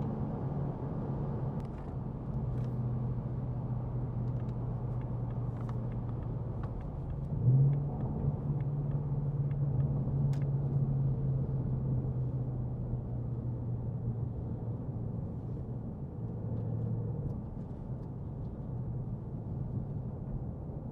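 Ford Mustang GT's 5.0-litre V8 running at a steady cruise, heard from inside the cabin over road noise. About seven seconds in it surges briefly and climbs in pitch, then settles back down.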